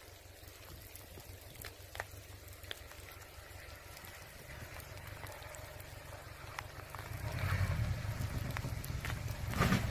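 Jeep crawling slowly along a rough trail: a low engine and drivetrain rumble with scattered clicks and knocks, growing louder about seven seconds in.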